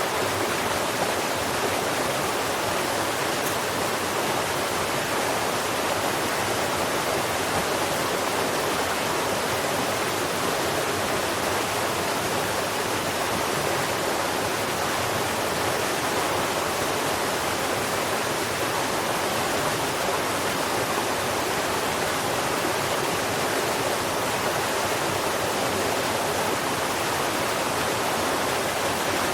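Steady rushing of running water, like a stream or waterfall, even in level throughout, with no bird calls standing out.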